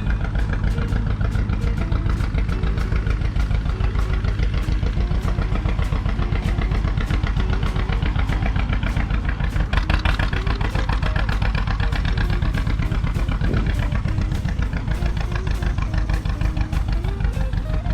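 A tractor engine running with a fast, even firing beat.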